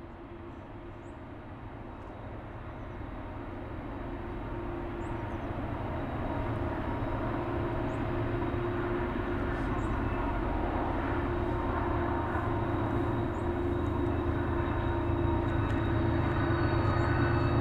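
Diesel locomotives at the head of a long freight train working upgrade and approaching: a deep engine hum with a few steady tones, growing steadily louder throughout.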